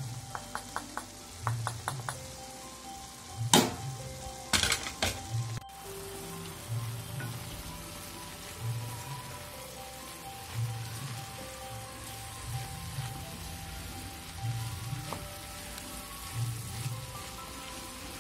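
Chopped amaranth greens frying and sizzling in a pan while ground coconut is tipped in and stirred through. A few sharp knocks against the pan come about three to five seconds in.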